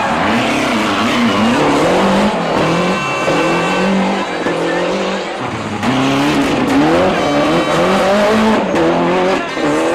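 Rally car engine revving hard, its pitch repeatedly climbing and dropping through gear changes, with a short lull about five and a half seconds in before it picks up again.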